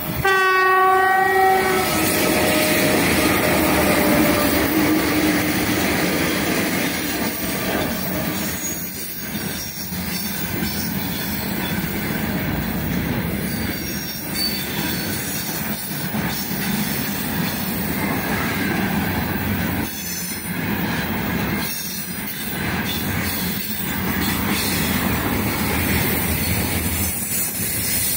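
A short horn blast of about two seconds from two coupled 2ES5K Ermak electric locomotives as they approach. Then the locomotives and a long container freight train roll past, with steady wheel-on-rail noise and the clickety-clack of the wagons over the rail joints.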